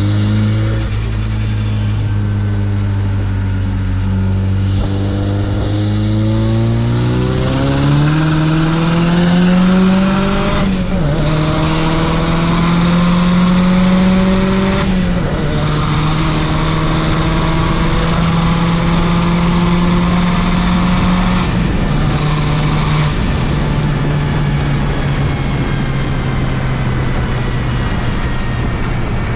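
Mazdaspeed 3's turbocharged 2.3-litre four-cylinder accelerating hard through the gears on the highway, with road noise. Its pitch climbs, then drops sharply at each upshift, about a third of the way in, again about halfway, and once more near the two-thirds mark, and it holds steadier after that.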